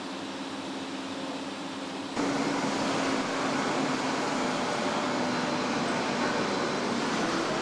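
Steady factory-floor hum of machinery and ventilation with a faint low drone. It steps abruptly louder about two seconds in, then holds steady.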